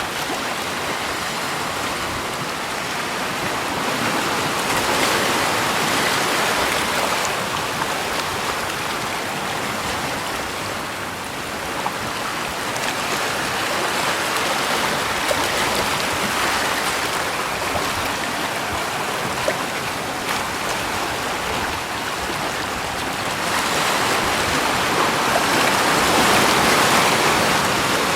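Steady rushing water, swelling and easing slightly every several seconds.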